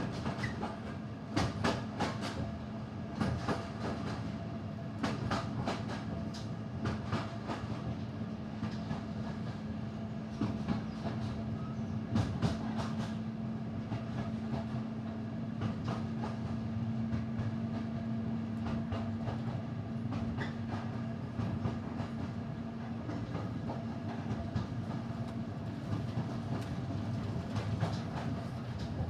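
Passenger train behind a class 55 diesel locomotive running along the line: the wheels click over the rail joints under a steady running hum. The clicks come thickest in the first half, and a steady drone comes in about two seconds in.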